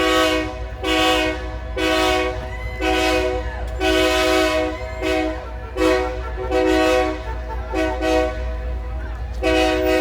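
Locomotive multi-tone air horn sounding a rapid series of about a dozen blasts, some short and some longer, over a steady low rumble.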